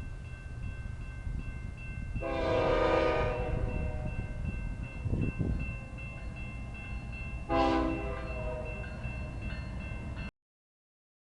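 Diesel freight locomotive's multi-chime air horn sounding for the grade crossing: one long blast, then a short one about five seconds later, over the train's steady rumble. The crossing's electronic bells ring throughout. The sound cuts out abruptly near the end.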